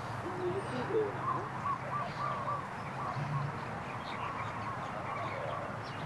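Birds calling in the background, a run of short repeated calls through the middle, over steady wind noise.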